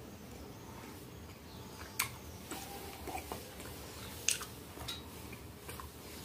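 A person chewing a mouthful of soft ravioli in creamy sauce with the mouth closed: scattered wet mouth clicks and smacks, the sharpest about two seconds in and just after four seconds.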